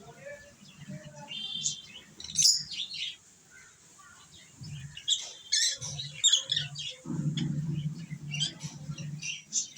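Lovebirds chirping: many short, high chirps and squeaks in quick, irregular succession. A low rumbling noise sits underneath for a couple of seconds near the end.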